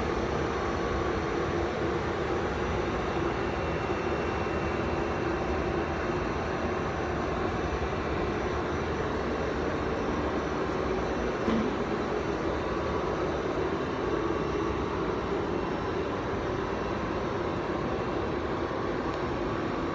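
HTC floor grinder running steadily, grinding tile adhesive off a floor, with a single brief knock about halfway through.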